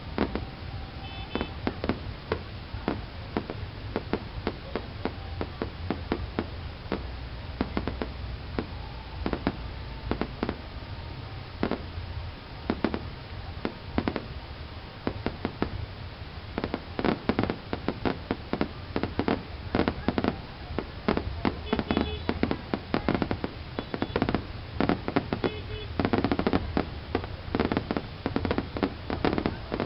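Fireworks going off: a rapid, irregular string of sharp cracks and bangs that grows denser and louder about halfway through.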